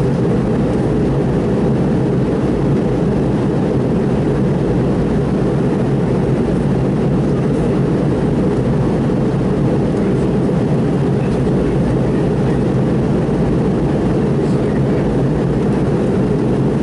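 Steady cabin noise inside a McDonnell Douglas MD-82 airliner: its rear-mounted Pratt & Whitney JT8D turbofans and the airflow make an even, low-heavy din that does not change.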